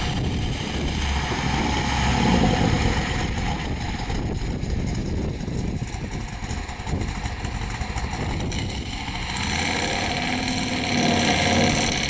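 Custom 1953 Cadillac DeVille's 454 cubic-inch V8 with tri-power carburetion running as the car drives off at low speed. Its sound swells about two seconds in and again near the end.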